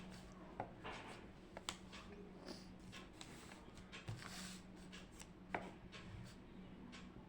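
Faint desk-work sounds: scattered light clicks, taps and soft rustles of someone studying, such as pen and paper handling, over a steady low hum.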